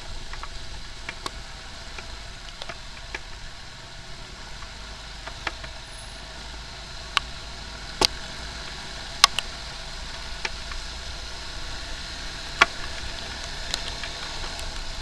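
Motorcycle running along a road in the rain: steady engine and road noise, with a few sharp ticks scattered through, the loudest about halfway through.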